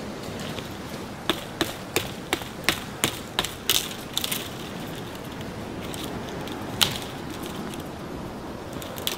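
Dry dead conifer branches snapped off by hand: a quick run of sharp cracks, about three a second, then two single snaps later on.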